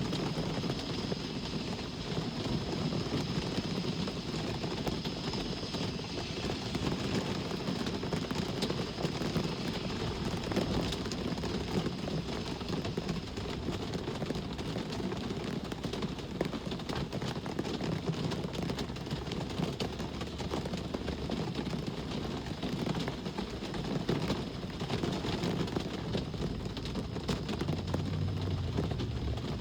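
Steady rain with many small drop ticks, over a low rumble of road traffic.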